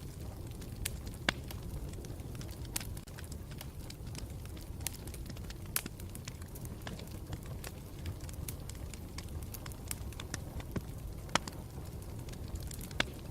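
Campfire burning with a steady low rumble and irregular sharp crackles and pops of the burning wood, a few louder snaps standing out.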